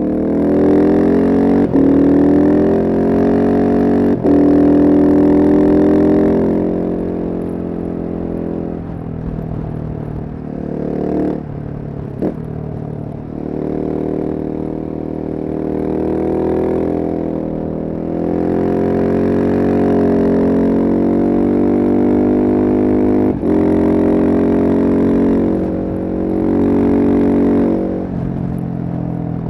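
Single-cylinder Husqvarna supermoto motorcycle engine pulling hard and revving up through the gears, the pitch climbing in repeated runs with brief drops at each gear change, then easing off and picking up again.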